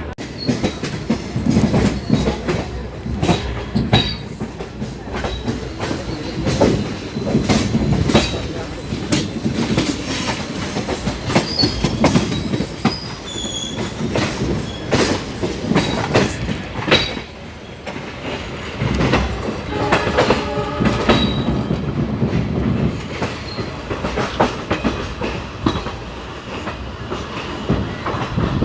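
Indian Railways passenger train rolling along, its wheels clattering over rail joints and points with an irregular run of knocks, and brief high wheel squeals here and there.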